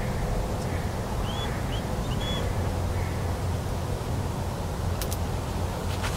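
Faint distant bird calls, a few short rising chirps in the first half, over a steady low outdoor rumble; two sharp clicks near the end.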